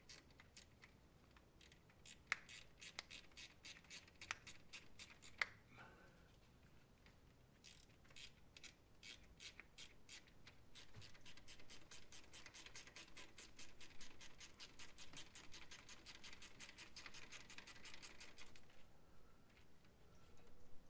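Hand ratchet wrench clicking faintly as a bolt is worked loose during engine disassembly. There are a few scattered clicks at first, then a fast, even run of clicks, about five a second, lasting about ten seconds.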